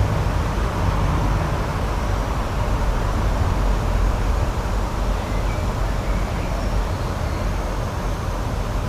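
Steady outdoor rushing noise with a deep, uneven rumble underneath, and a few faint high chirps about halfway through.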